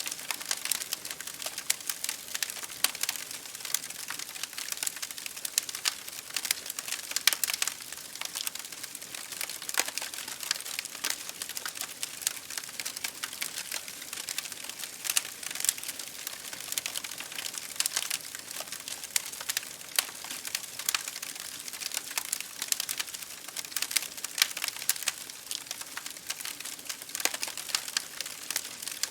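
Wood fire crackling in a fireplace, with rain hitting a window: dense, irregular pops and snaps over a steady hiss.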